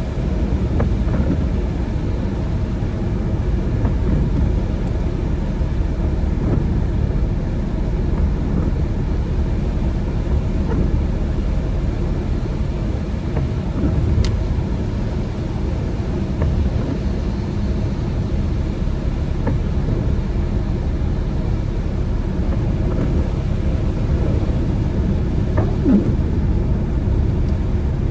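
Steady low rumble of road and engine noise from a car driving along wet roads.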